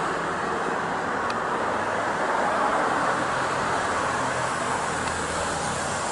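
Bell 505 Jet Ranger X helicopter running for take-off, a steady rushing noise of turbine and rotor.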